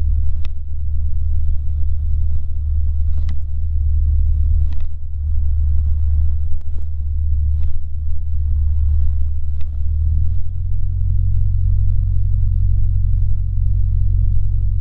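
Cessna 150's Continental O-200 four-cylinder engine running steadily at low power, heard from the cockpit, with a few light clicks; its note shifts about ten seconds in.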